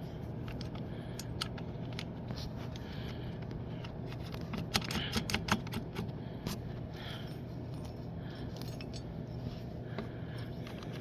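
Small metal clinks and clicks of hand tools and small parts being handled during reassembly of a lawnmower carburetor, with a burst of sharper clinks around five seconds in, over a faint steady low hum.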